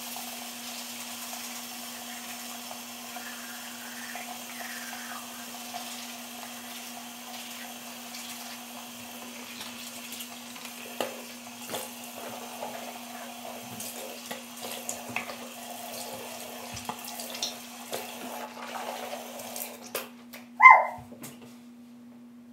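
Water running from a tap into a sink, with a steady low hum underneath and scattered small knocks and clatter. Near the end a short, loud squeak stands out above the rest.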